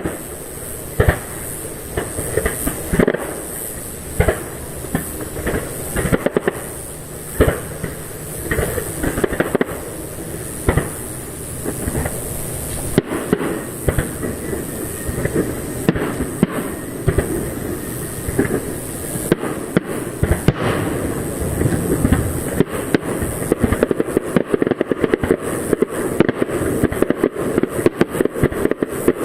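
Fireworks display: shells bursting one after another with booms. The bursts come faster and denser over the last several seconds.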